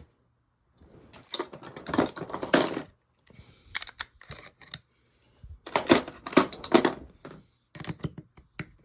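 Small metal parts of a Shakespeare Service baitcasting reel clicking and rattling in quick clusters while the handle nut is tightened down by hand.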